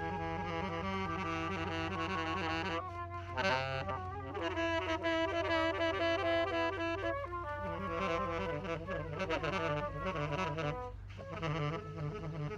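Saxophone and a bowed low string instrument jamming together: quick melodic lines on the saxophone over held low notes.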